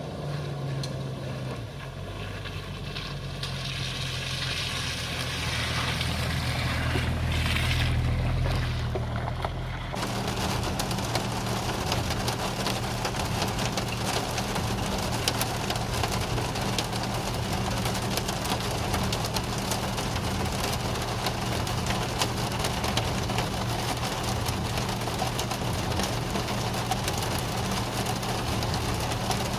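Jeep Wrangler TJ driving on a forest track, its engine running steadily. About ten seconds in the sound changes abruptly, and from then on rain patters on the vehicle over the engine hum.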